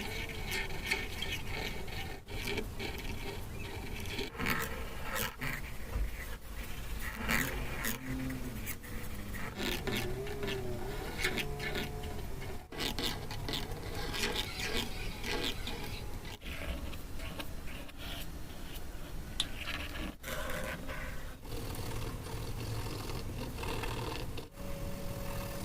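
Paper being handled close up: rubbing, scraping and crinkling, with many small taps and clicks.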